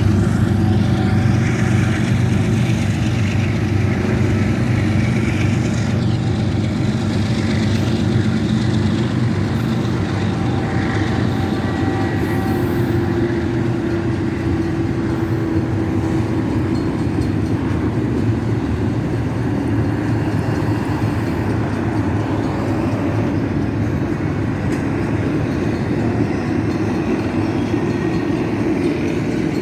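Union Pacific intermodal freight train passing, a steady low rumble with wheels clicking over the rail joints.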